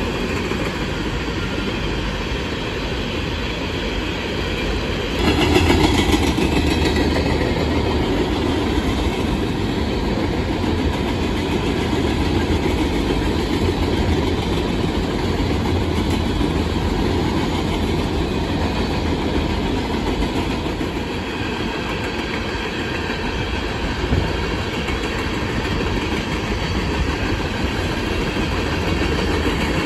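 Freight cars of a rock train rolling steadily past: a continuous rumble with wheels clicking over the rail, growing louder about five seconds in.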